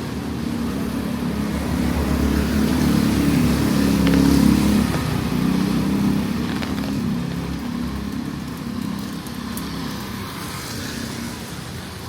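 A motor vehicle passing close by on the street. Its engine rumble grows to its loudest about four to five seconds in, then slowly fades away.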